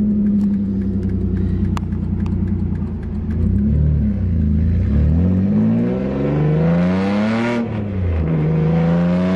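A car's engine heard from inside the cabin. It runs at a steady note, then revs up hard twice under acceleration, its pitch climbing each time, with a sharp drop between the two pulls.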